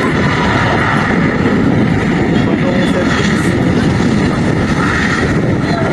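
Loud, steady aircraft engine noise: a low rumble with a steady high whine over it.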